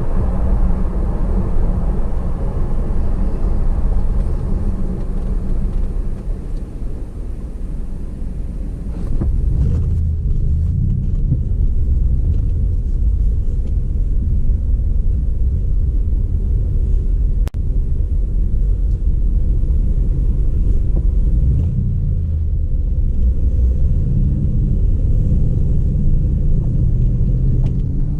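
Steady low rumble of a car on the move, engine and road noise as picked up by a dash cam. The sound shifts abruptly about nine seconds in, and there is one sharp click a little past halfway.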